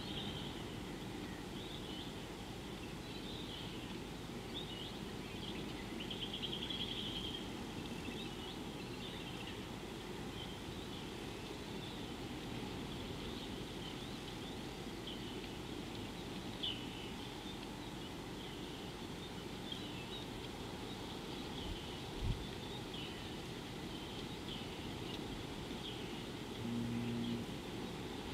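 Steady low background rumble with many short, high bird calls and chirps scattered throughout. A single dull thump comes about three-quarters of the way through, and a brief low hum comes near the end.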